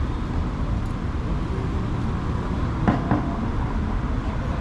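Steady low rumble of city street traffic, with two sharp knocks in quick succession about three seconds in.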